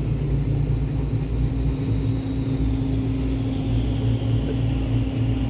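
Combine harvester running steadily as it cuts wheat, heard from inside a closed tractor cab: a continuous low rumble with a steady hum.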